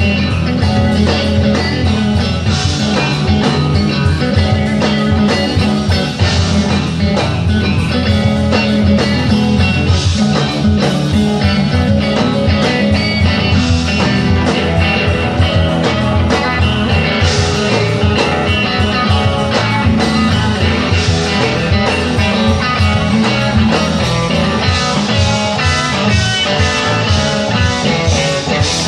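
A live rock band playing an instrumental passage with electric guitar over bass and a steady beat, without vocals.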